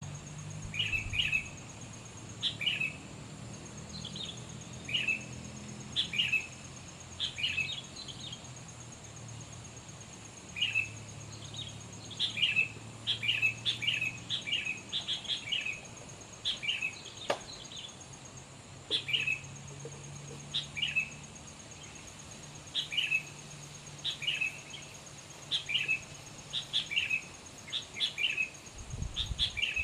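Sooty-headed bulbul (kutilang) calling: short, sharp chirps in quick pairs and clusters, repeated every second or two, over a steady high-pitched whine.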